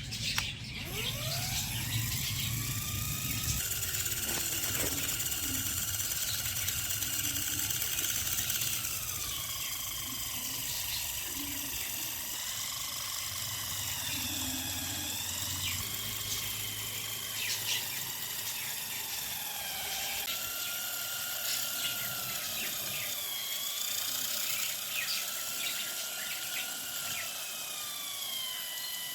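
Small electric motor of a homemade knife-sharpener machine spinning up with a rising whine, then running on with its pitch dipping and recovering again and again. Scattered light clicks and scrapes sound over it.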